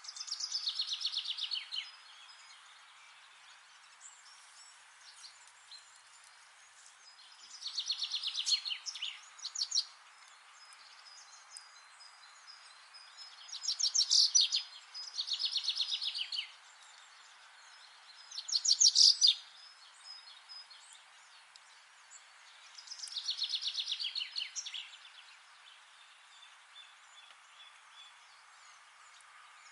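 A songbird singing: a rapid trilled phrase that falls in pitch, repeated about every five seconds, over a steady faint hiss.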